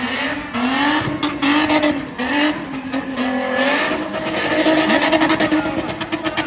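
Spinning car's engine held at high revs, its note wavering as the throttle is worked, with tyres screeching in surges. From about halfway on the engine note steadies and a fast, even stutter runs under it.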